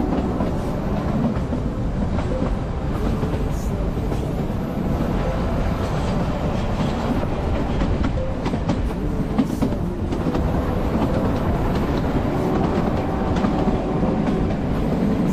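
Narrow-gauge Kalka–Shimla toy train running along the line: a steady rumble of wheels on rails with scattered light clicks.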